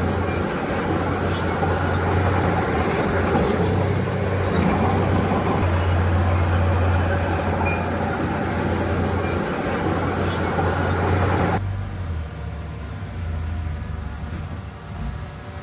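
Heavy diesel engine of a working bulldozer, a steady low drone with scattered sharp clinks and rattles over it. About three-quarters through it cuts abruptly to a quieter, steadier engine hum.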